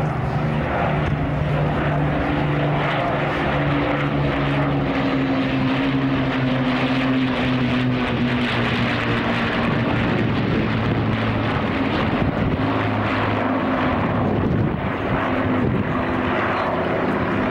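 World War II piston-engined propeller aircraft, a Lancaster with a Spitfire and Hurricane, flying past with a steady multi-engine drone whose pitch sinks slowly as they pass.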